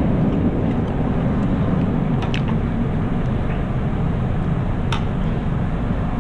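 Chewing and mouth sounds of a person eating, with a few sharp wet clicks, over a steady low rumble.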